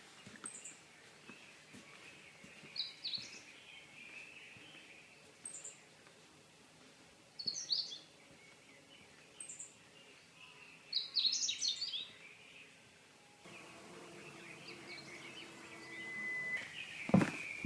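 Wild birds calling in a forest: short, high chirping phrases every couple of seconds, over a faint steady high-pitched background. Near the end a sharp knock sounds.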